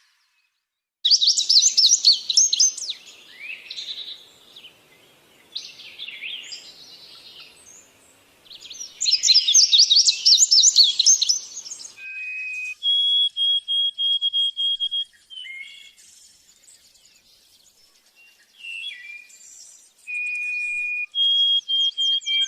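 Wild songbirds singing. After about a second of silence come loud, fast, high chirping trills in two long bursts. Later there are series of short whistled notes, each series held on one pitch.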